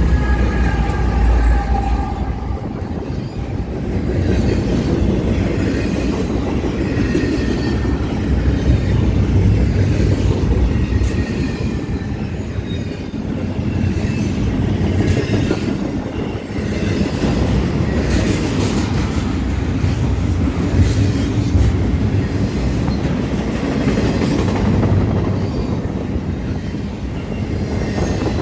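BNSF diesel-electric freight locomotives rumbling past, followed by a long string of double-stack container well cars rolling by at speed. The cars make a steady rumble with wheel clatter and some high wheel squeal.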